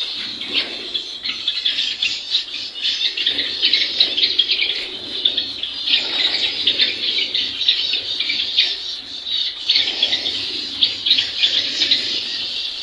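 A flock of caged pet birds chirping and squawking together, a dense stream of short high calls overlapping without a break.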